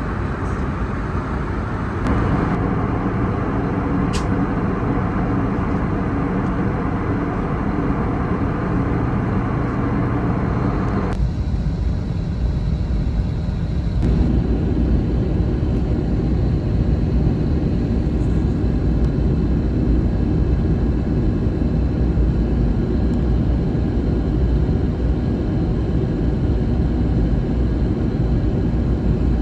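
Steady engine and airflow noise of an Airbus A321neo, heard inside the passenger cabin. It grows a little louder about two seconds in.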